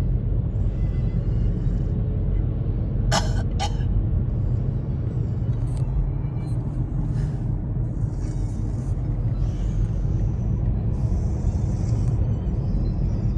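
Steady low road and engine rumble inside a moving car's cabin, with two short sharp clicks about three seconds in.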